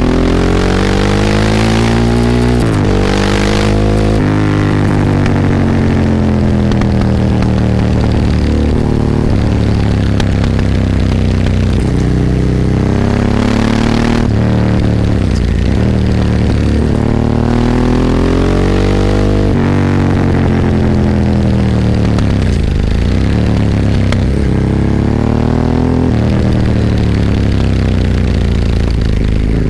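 Ducati 998's 90-degree L-twin engine heard onboard while riding, its pitch climbing under acceleration with sudden drops at gear changes, then falling away as the bike slows, several times over.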